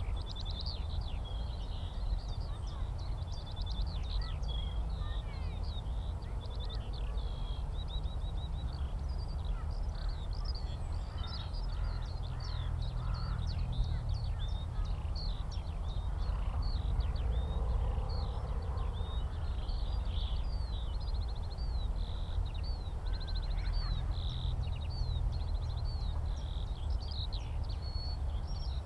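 Skylark singing a continuous, rapid, ever-changing song of high chirps, whistles and buzzy trills, over a steady low rumble.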